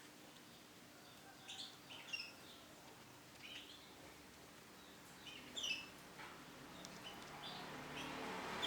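Female brown canary giving short, high chirping calls, about one every second and spaced unevenly, rather than a full song. A rushing noise swells over the last second.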